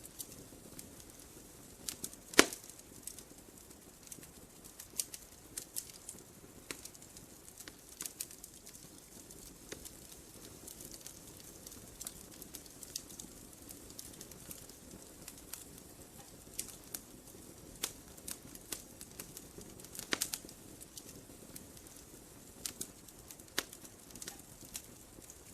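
Wood fire burning in a fireplace: irregular sharp crackles and pops over a soft steady hiss, with one loud pop about two seconds in.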